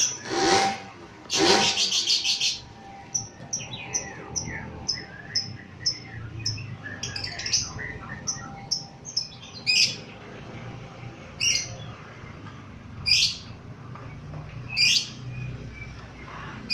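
Lovebird calling: a loud rapid chattering trill near the start, then a run of short high chirps, then single sharp calls about every second and a half.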